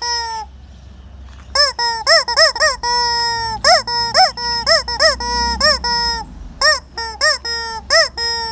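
Rubber squeaky chicken toy squeezed again and again, giving a rapid run of loud honking squawks. Most are short and arch up and down in pitch, and a few are held longer. After the first squawk there is a pause of about a second.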